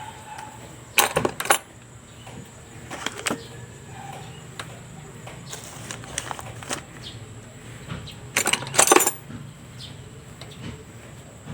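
Metal tools and small parts clinking and rattling in short bursts during motorcycle repair work: a cluster about a second in, a brief one around three seconds, and the loudest cluster about eight and a half seconds in.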